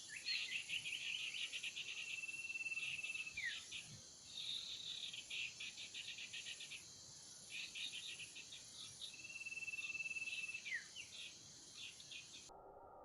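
Small birds chattering in fast rattling trills, twice breaking into a held whistle that slides down at its end, over a steady high insect drone. Just before the end the sound cuts off abruptly to a low steady tone.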